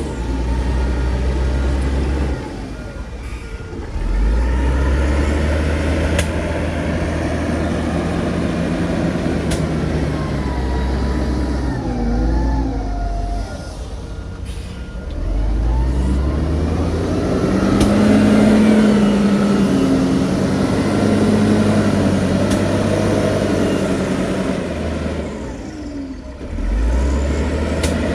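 Heavy diesel engine of earthmoving machinery working under load, its pitch rising and falling. It eases off three times, about two seconds, thirteen seconds and twenty-five seconds in, then picks up again each time.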